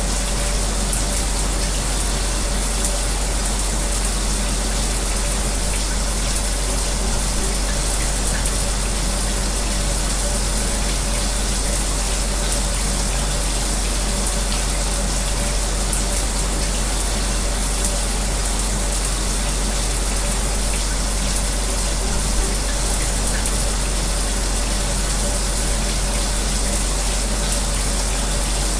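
Shower spray running steadily, blended with an electric fan's constant whir and a steady low hum.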